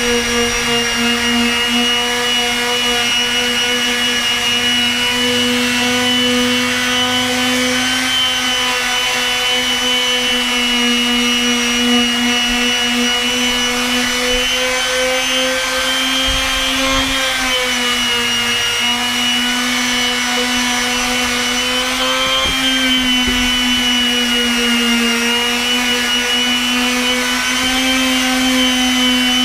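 Makita random orbit palm sander running steadily, sanding deck boards, with a steady whine whose pitch dips briefly twice.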